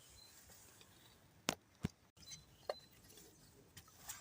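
Two sharp wooden snaps about a third of a second apart, then a few faint clicks: dry kindling sticks being snapped for a campfire.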